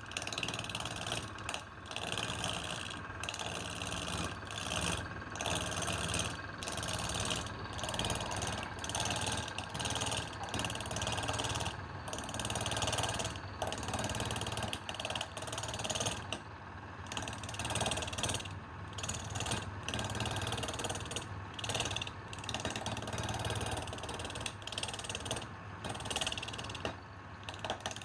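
Wood lathe running with a steady motor hum, while a turning tool cuts the spinning wood with a hissing scrape that breaks off and starts again about once a second.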